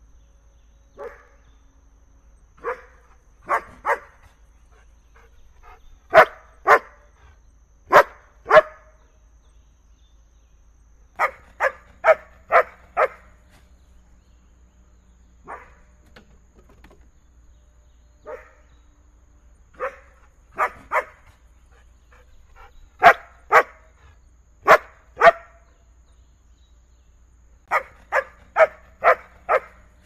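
A big dog barking repeatedly, in short runs of two to five sharp barks with pauses of a second or more between runs.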